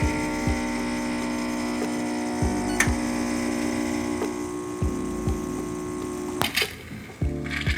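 Espresso machine's pump humming steadily while brewing a shot, cutting off about six and a half seconds in.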